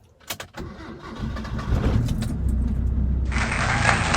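A few sharp clicks, then a vintage Mitsubishi Lancer's engine starts about a second in and settles into steady running, started despite a faulty starter motor. A loud steady hiss joins near the end.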